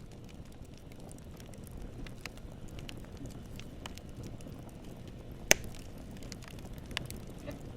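Campfire burning: a low steady rumble with scattered small crackles, and one sharp loud pop about five and a half seconds in followed by a smaller pop a little later.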